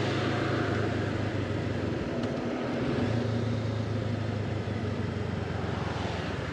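Honda CB500X's parallel-twin engine running at a steady pace while riding, with wind rushing over the microphone.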